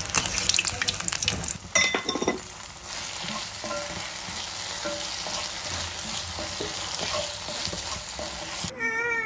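Hot oil sizzling as egg pieces deep-fry in a steel kadai. About two seconds in, a few metal clanks ring out, then a spatula stirs fried egg pieces and vegetables in a cast-iron pan over a steady sizzle.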